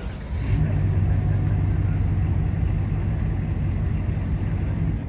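A steady low mechanical hum that sets in about half a second in, over the general noise of a crowded hall.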